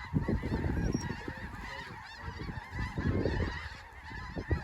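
A large flock of snow geese calling continuously, many high honking calls overlapping into a constant din, over a heavy low rumble that swells at the start and again about three seconds in.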